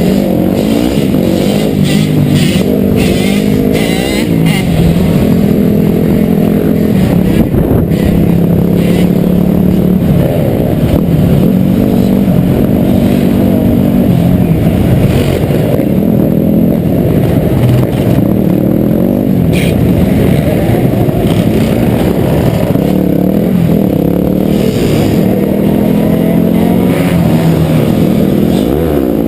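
Dirt bike engine running and revving, its pitch rising and falling again and again as the throttle opens and closes.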